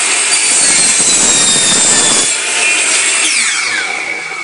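Power saw cutting through a wooden plank, with a steady high blade whine over the cutting noise. The cut ends about two seconds in, and the blade runs on with a whine that slowly fades.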